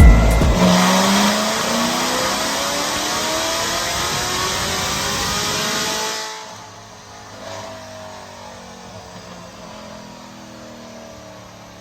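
Supercharged LT4 V8 of a C7 Corvette Z06 with a BTR Stage 2 camshaft accelerating hard, the revs climbing steadily for about six seconds. The level then drops suddenly, leaving a quieter engine sound whose revs still rise slowly.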